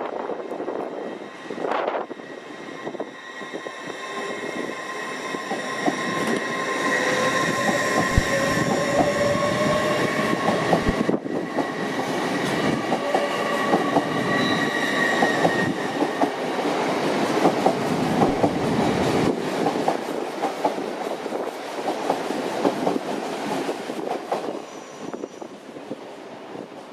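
A train running past on the rails. Wheel and rail noise with steady high-pitched whines swells over several seconds, stays loud through the middle, and then fades away.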